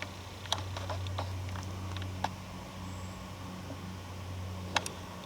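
A few scattered sharp snaps and crackles of twigs and leaf litter underfoot on the forest floor, over a steady low hum.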